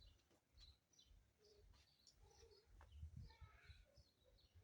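Faint, scattered bird chirps over near silence.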